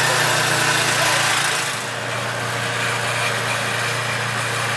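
A small engine running steadily, with a constant low hum under a broad hiss that eases slightly about two seconds in.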